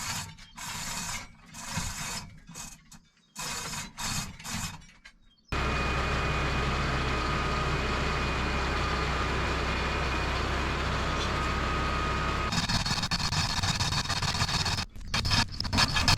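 Chain hoist ratcheting in short repeated strokes with pauses between them. It is followed by an abrupt change to a steady mechanical hum with a faint high whine, and then by clicks and scraping.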